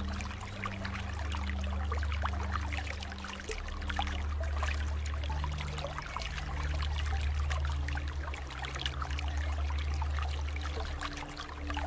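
Water flowing and trickling in a stream, a steady splashing rush full of small droplet ticks. Underneath runs a low droning note that steps to a new pitch every second or two.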